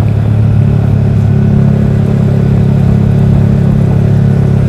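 Yamaha R15 V3's single-cylinder engine running at a steady note through a Daytona Evolution aftermarket exhaust, deep and even.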